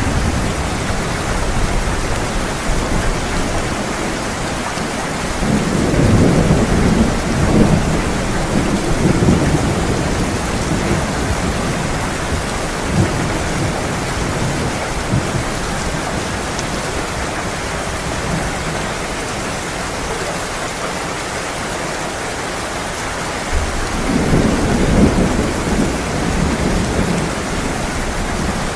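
Heavy rain pouring steadily, with thunder rumbling twice, once about six seconds in for several seconds and again near the end.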